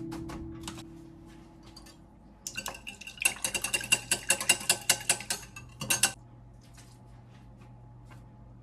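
A fast run of sharp mechanical clicks, ratchet-like, lasting about three and a half seconds and then stopping suddenly. It comes after the tail of background music fades out.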